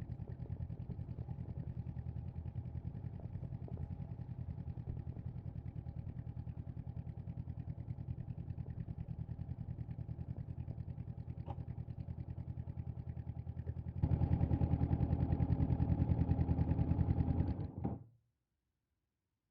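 Honda CB500X parallel-twin engine idling with an even pulse and steady pitch. It grows suddenly louder about two-thirds of the way in without rising in pitch, then the sound stops abruptly near the end.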